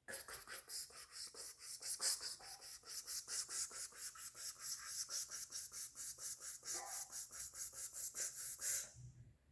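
Fingernails scratching trouser fabric in fast, even strokes, about six a second, stopping shortly before the end.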